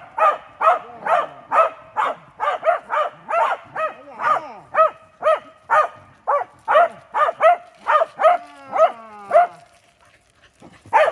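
Welsh corgi barking rapidly, about three barks a second, with a drawn-out falling whine about eight seconds in; the barking breaks off for a second near the end, then starts again.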